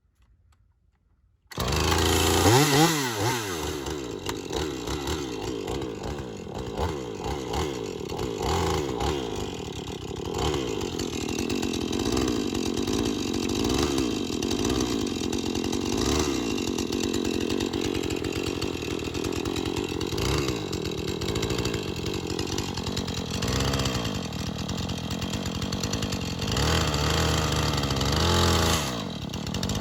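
Chainsaw engine running at high revs. It comes in abruptly about a second and a half in, after near silence, and holds steady, with its pitch rising and dipping now and then.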